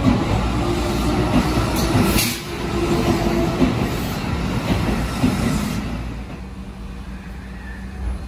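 Shin-Keisei Line electric train running past a station platform, with wheels clattering over the rail joints and brief high squeals. Its sound drops away about six seconds in, leaving a steady low hum.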